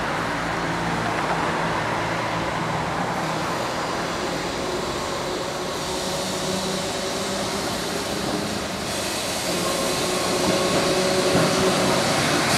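A train approaching, a steady rumble with faint held tones that grows louder over the last few seconds.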